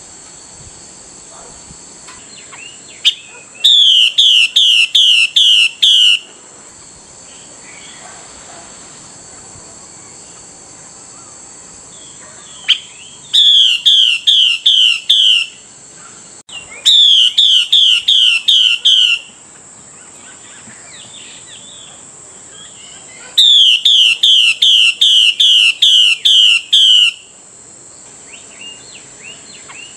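Female Chinese hwamei (Vietnamese họa mi mái) giving its calls to provoke males. Four loud bursts of fast, evenly repeated slurred notes, each burst two to three seconds long, over a steady high whine.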